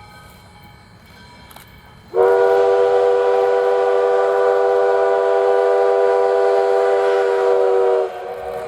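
Steam locomotive whistle, one long steady blast of about six seconds that starts suddenly about two seconds in.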